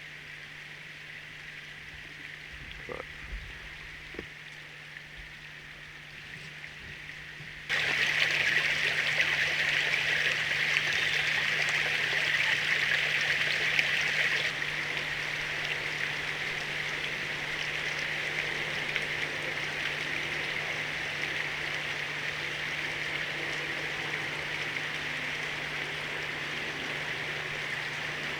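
Running water of a stream, a steady rushing hiss that becomes suddenly much louder about eight seconds in and eases slightly around fourteen seconds, over a faint steady low hum.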